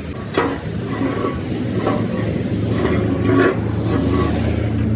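Engine running steadily, with three sharp knocks about a second and a half apart.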